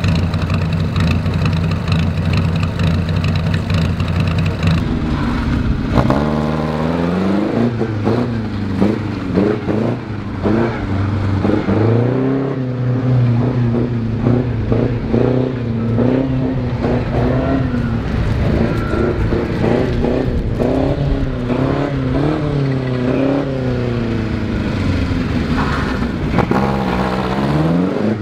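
Pre-war vintage sports car engine idling steadily for the first few seconds, then from about six seconds in revving up and dropping back again and again, its pitch rising and falling with each burst of acceleration.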